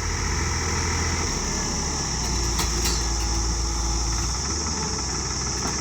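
Tractor engine running steadily, its low note shifting a little about a second and again about two seconds in.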